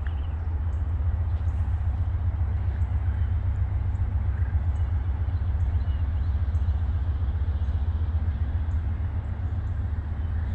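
Steady low rumble of a slow-moving CSX freight train's diesel locomotives.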